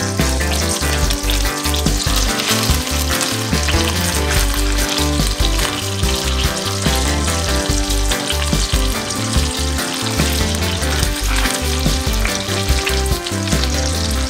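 Breadcrumb-coated chicken cordon bleu rolls sizzling steadily as they shallow fry in hot oil, over background music.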